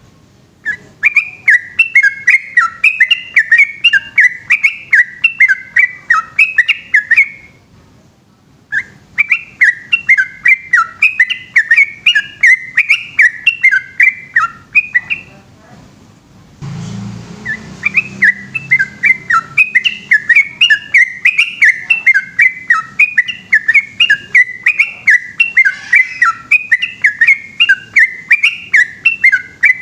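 Trucukan (yellow-vented bulbul) singing a long, rapid run of bubbly whistled phrases, in three stretches with short breaks about 8 and 16 seconds in. A brief rustling noise comes at the second break.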